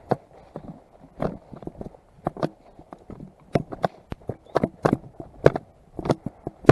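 Footsteps of a person walking on a patrol path: short, uneven steps, about one or two a second, some in quick pairs.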